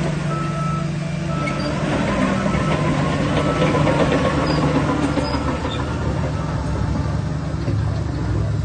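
Shantui DH17C3 bulldozer's diesel engine running under load, with a steady low drone and a rattling clatter, a little louder about four seconds in.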